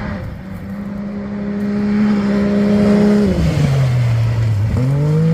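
A rally-raid competitor's engine approaching at steady revs and growing louder; about three seconds in the revs fall away as the throttle is lifted, then climb sharply again near the end as the throttle goes back on.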